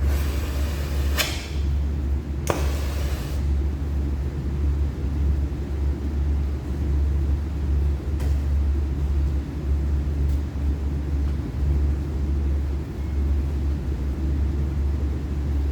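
Refrigeration compressor of a blast freezer running with a steady low hum. A few brief clicks or rustles come in the first few seconds.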